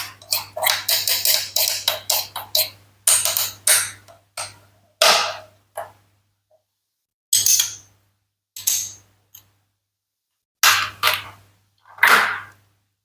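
Toy play-food fruits and vegetables of plastic and wood being cut apart with a toy knife. A run of quick clicks and rasps fills the first three seconds, then come single short scraping snaps every second or two.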